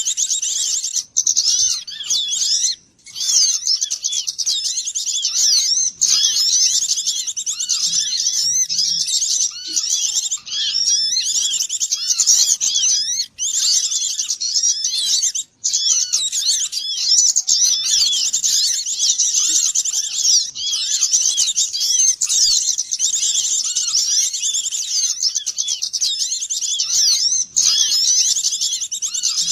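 Dense, unbroken chorus of many small songbirds chirping and twittering over one another: a bird-trapping lure recording meant to draw small birds in.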